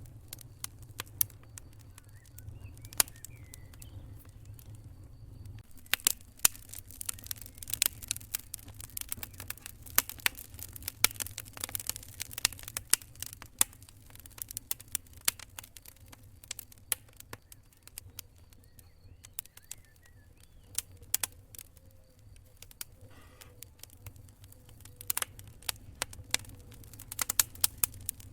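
Wood fire crackling and popping, with irregular sharp snaps that come in denser flurries, over a low steady rumble of the burning fire.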